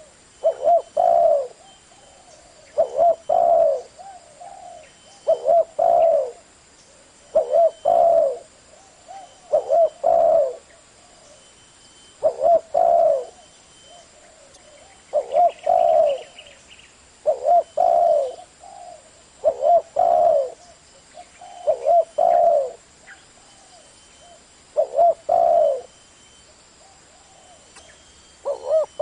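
Spotted dove cooing, repeating its short phrase about every two to three seconds.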